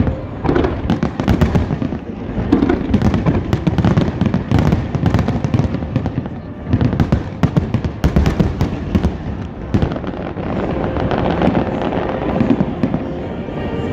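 Aerial fireworks shells bursting in a rapid barrage, a dense run of booms and crackles over a continuous rumble. Near the end the bursts thin out into a steadier rumble.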